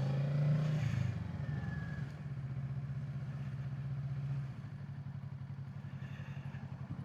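Kawasaki Z650's parallel-twin engine running at low, fairly steady revs, as heard from the rider's position. It gets quieter in steps about two seconds in and again past four seconds.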